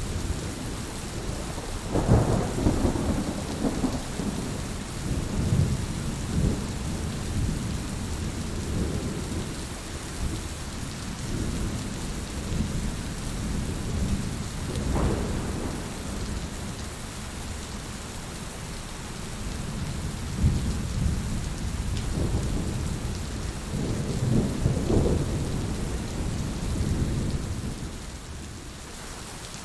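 Steady rain with low rolls of thunder that swell and fade several times, the loudest about two seconds in and again near the end.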